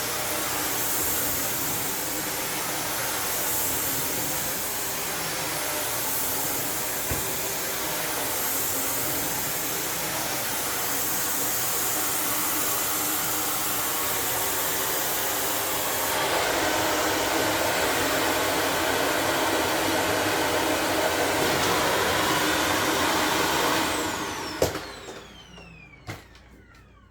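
Shark Navigator Lift-Away Pro upright vacuum cleaner running steadily on carpet, its sound growing louder and more whining about two-thirds through. Near the end it is switched off and the motor spins down with a falling whine, followed by a couple of clicks.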